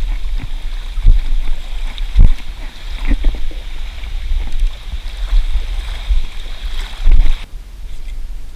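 Someone wading quickly through a shallow creek: irregular sloshing steps and thumps in the water, with wind rumbling on the microphone.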